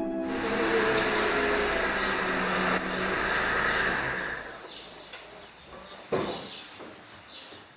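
Mercedes-Benz SLK's engine running, then switched off about four and a half seconds in, when the sound drops away. A single knock follows near six seconds, with a few faint high chirps.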